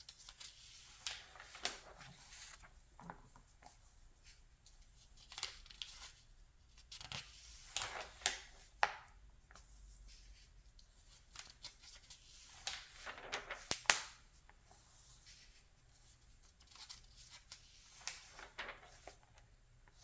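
Pages of a 1981 Redbook magazine being turned by hand: paper rustling and swishing in irregular bursts every few seconds, with small crinkles and flicks between them.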